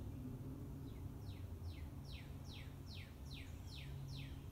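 A bird singing a run of about ten quick falling notes, roughly three a second, faint against a low steady hum.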